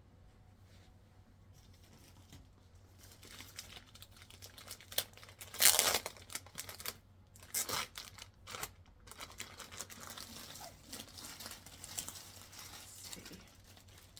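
Packaging of a rolled diamond-painting canvas being unwrapped by hand: irregular crinkling and rustling that starts about a second and a half in, with its loudest burst about six seconds in.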